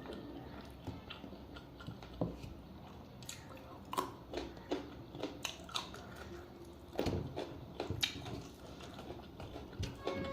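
Close-miked eating of a meal of chicken soup and rice: chewing and biting, with irregular wet clicks and snaps, the loudest about 4, 7 and 8 seconds in.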